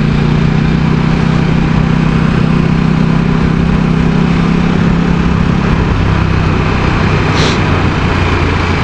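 KTM RC8 V-twin engine running steadily while riding, under a constant rush of wind noise; its note drops lower about six seconds in. A brief hiss comes near the end.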